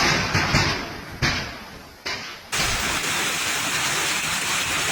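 Storm wind and heavy rain as a rushing noise, with several abrupt jumps in level in the first couple of seconds, then a steady, even rush.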